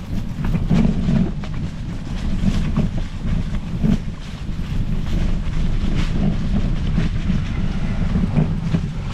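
Wind buffeting the microphone over the low rumble of a Specialized Epic Pro mountain bike rolling along a rough trail, with frequent small knocks and rattles as it rides over bumps.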